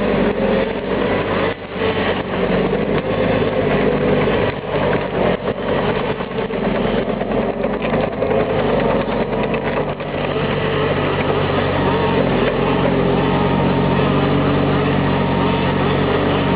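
Valtra T131 forestry tractor's diesel engine running steadily while it loads pine logs, with scattered knocks and clatter in roughly the first ten seconds. From about ten seconds in, the engine sound is steadier.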